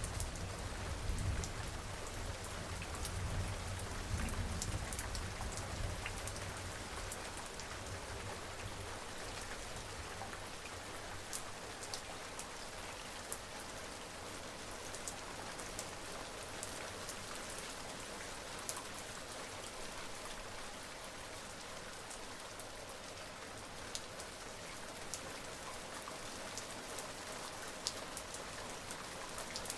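Steady rain falling, with scattered sharp drop ticks close by. A low rumble of distant thunder dies away over the first few seconds.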